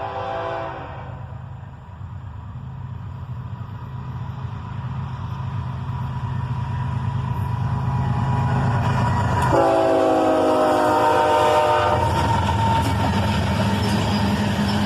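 Diesel freight locomotives approaching, their engines rumbling louder and louder. A multi-note air horn chord cuts off just under a second in, and a second horn blast of about two seconds sounds about two-thirds of the way through.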